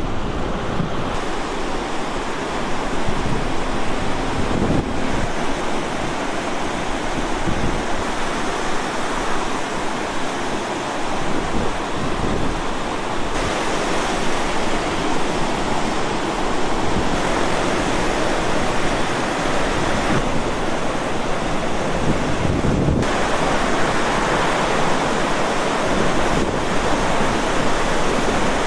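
Water rushing steadily through the open gates of the Chao Phraya Dam as its discharge is increased, with wind buffeting the microphone. The sound changes abruptly several times, as at cuts between shots.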